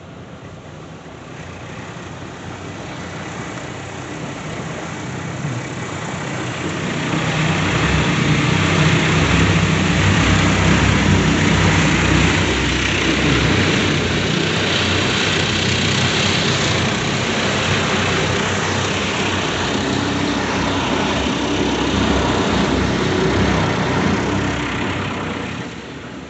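Istobal Flex 5 rollover car wash running over the car, heard from inside: a steady wash of scrubbing brushes and water spray with a deep rumble. It grows louder over the first seven or eight seconds as the brushes close in, holds, and falls away near the end.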